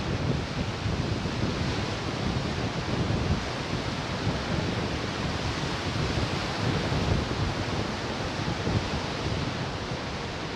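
Ocean surf washing ashore in a steady rush, with wind buffeting the microphone.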